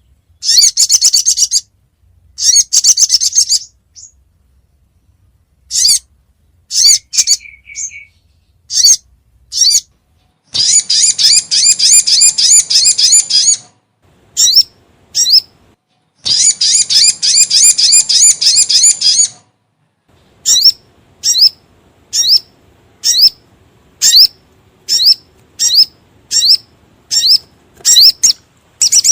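Crimson sunbird (sogon) calls: high, fast trills in short bursts, two long trills of about three seconds each in the middle, then a series of short sharp chirps about twice a second.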